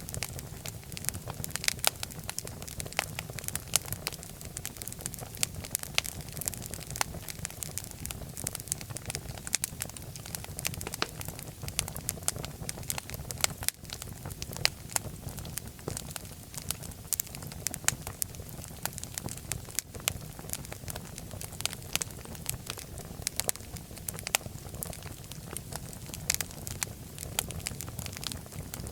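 Wood fire crackling in a fireplace: a steady low rumble of flames with many sharp pops and snaps scattered throughout.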